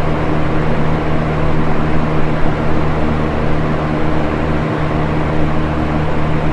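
Box fan running steadily: an even rush of moving air over a steady low motor hum.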